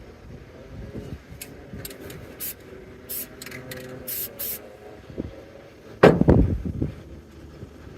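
Aerosol spray paint can hissing in several short bursts over a helmet, then a loud low thump about six seconds in.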